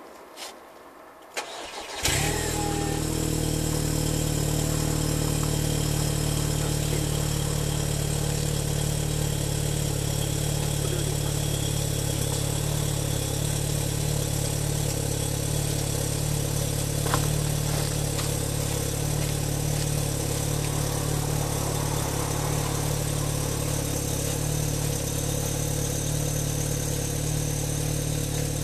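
Cold start of a tuned 1.8 TSI turbocharged four-cylinder petrol engine: after a few clicks it fires about two seconds in and settles straight into a steady idle. A single sharp click sounds over the idle near the middle.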